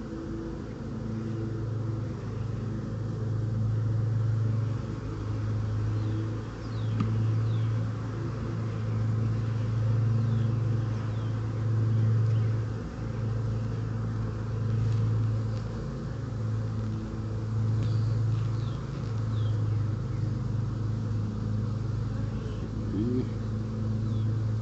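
Honeybees humming around an opened hive: a steady low drone that dips briefly now and then, with one bee rising in pitch as it flies close near the end. Faint bird chirps sound in the background.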